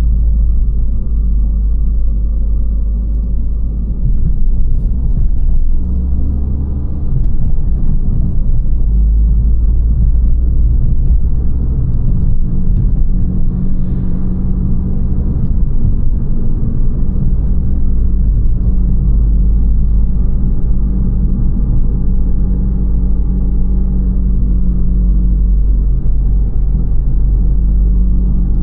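Abarth 595 Competizione's turbocharged 1.4 T-Jet four-cylinder engine and Record Monza exhaust running on the move at fairly steady revs, a loud low rumble, with a brief dip in loudness about seven seconds in.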